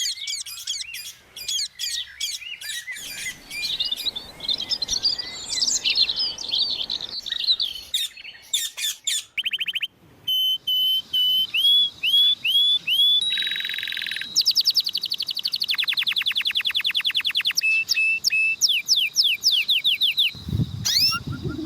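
Songbirds chirping and singing in a string of changing passages: jumbled chirps at first, then series of short whistled notes that hook up or down, and a fast trill past the middle. A low rumble of noise comes in near the end.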